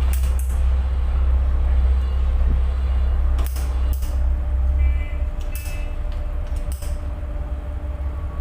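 Tugboat's diesel engine running with a steady low rumble that eases about five seconds in, with a few short sharp clicks over it.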